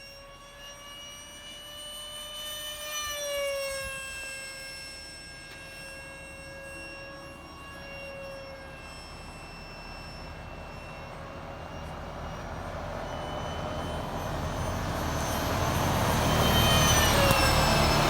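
Electric ducted fan of an RC F-18 foam jet (a fan of about 64 mm) whining in flight. Its pitch drops as the jet passes about three seconds in. The whine and rushing air then grow louder as it comes back low and fast, with another falling pitch as it passes near the end.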